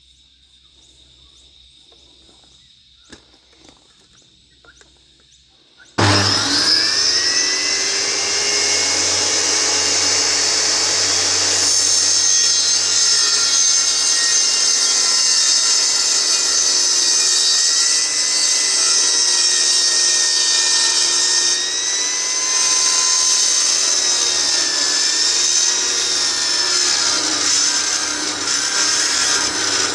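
Electric power saw cutting wood: after a few quiet seconds with small clicks, the saw starts abruptly about six seconds in and runs continuously, its motor whine wavering in pitch as it works through the cut.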